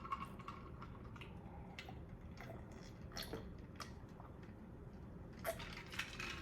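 Faint chewing: a few soft, wet mouth clicks spaced out about a second apart.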